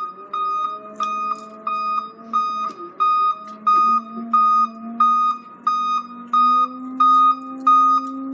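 An electronic warning beeper sounds a steady single-pitched beep about twice a second, over a low engine hum that rises slightly in pitch after about six seconds.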